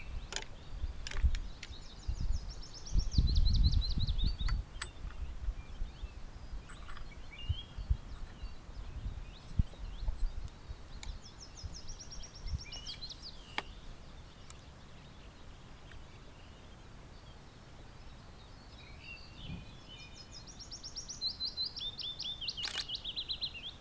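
A songbird singing three phrases, each a rapid run of high notes that drops in pitch over two to three seconds, several seconds apart. Low rumbles of handling noise in the first few seconds and a few sharp clicks.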